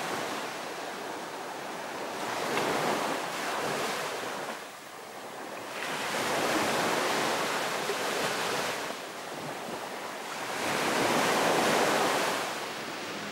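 Sea waves washing in on a shore, swelling and falling back about three times.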